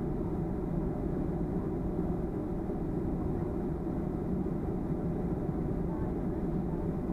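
Steady low rumble inside the passenger cabin of a Boeing 737-300: its CFM56 engines running and cabin airflow, even and unchanging in level.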